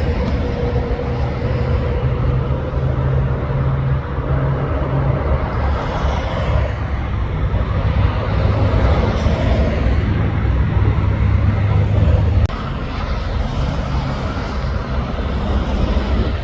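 Heavy trucks' diesel engines running loud and close, a deep steady drone that shifts in pitch about four seconds in and drops off sharply about twelve seconds in. A held horn note fades out right at the start.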